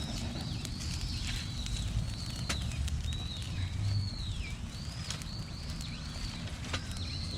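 A young campfire of leaves and twigs crackling, with sharp pops scattered through and a low rush of flame as it catches. A high, thin whistling sound repeats throughout, dipping in pitch and coming back up again and again.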